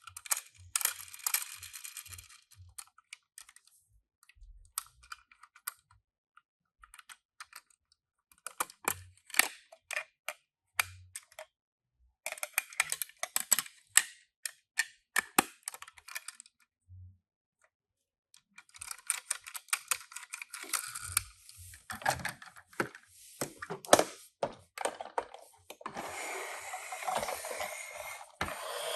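Die-cast toy cars and their packaging being handled: many sharp clicks and taps of small plastic and metal parts. There are several bursts of rustling, the loudest and longest near the end.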